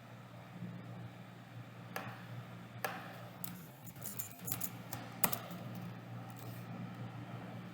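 Scattered clicks of computer keys and mouse buttons, a quick cluster of them about four to five seconds in, over a steady low hum.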